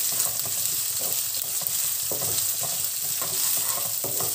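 Finely chopped onion with whole spices frying in hot oil in a nonstick kadai, sizzling steadily. A wooden spatula stirs and scrapes through it in short irregular strokes.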